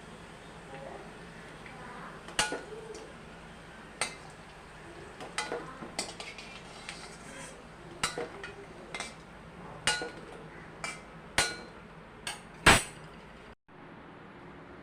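Kitchen dishes and utensils clinking and tapping: about a dozen sharp, irregular knocks, the loudest near the end, followed by a brief cut-out of all sound.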